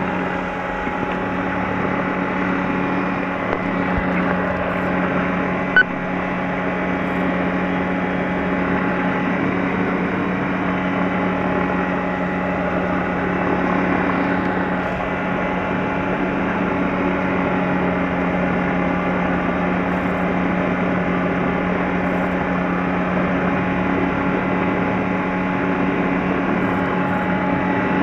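Light airplane's piston engine running steadily at a constant low speed, a deep even drone heard through the intercom. One short click about six seconds in.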